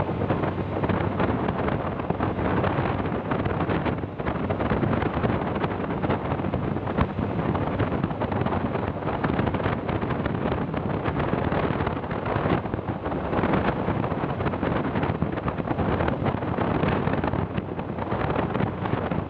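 Wind rushing and buffeting over the microphone of a moving vehicle, with its engine running steadily underneath.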